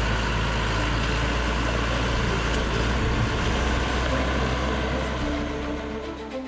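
Dongfeng 4WD off-road truck's engine running at a steady speed with a deep, even drone.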